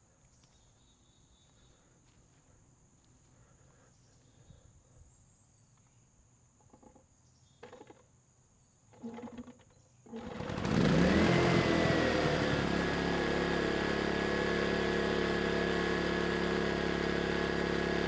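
Near silence with a few faint knocks, then about ten seconds in the Erayak 4500PD inverter generator's 150 cc engine starts, its pitch swooping up briefly before it settles into a steady run. It is being restarted to reset the inverter after an overload shutdown.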